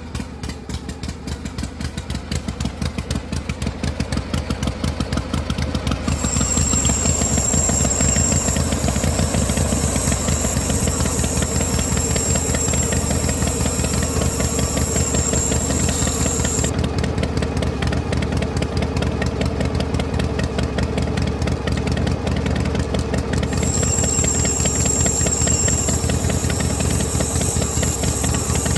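Small electric motor of a DIY model tractor running the mini flour mill, with a rapid steady rattle. A high whine joins in about six seconds in, drops out around seventeen seconds, and comes back near the end.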